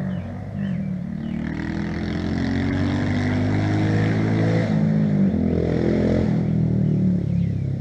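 Engines of motorcycles or four-wheelers being ridden hard, revving with the pitch climbing and dropping several times as they accelerate and shift. They grow louder toward the middle and stay loud until near the end.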